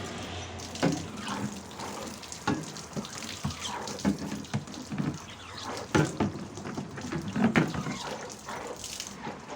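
Running water splashing during cleaning, with irregular knocks and clatter of things being handled in it.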